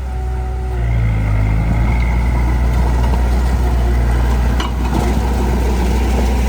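Heavy-equipment diesel engine running steadily, its note picking up about a second in. There is a single sharp knock a little past the middle.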